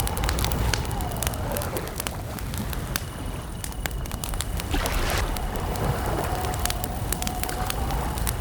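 Wood campfire crackling with many sharp pops over a low rumble, with crickets making a faint steady trill.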